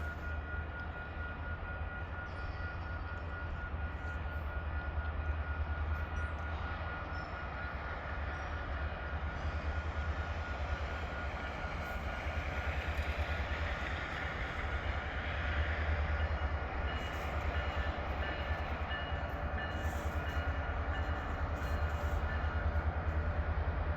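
CPKC GP20C diesel locomotive and its train running: a steady low engine rumble with rail noise, growing slightly louder.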